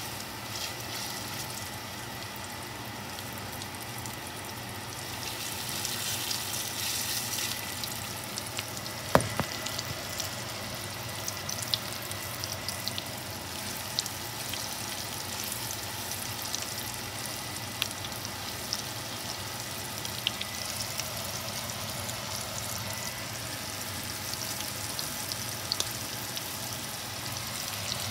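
Flour-coated chicken tenderloins sizzling steadily as they shallow-fry in hot oil in a pan, with scattered crackles and pops. The sizzle swells briefly about five seconds in, and there is one sharp click about nine seconds in.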